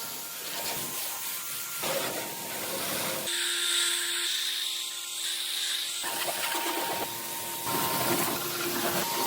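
Power polisher running against a surface, a steady motor whine under rubbing noise; the sound changes abruptly about three and six seconds in.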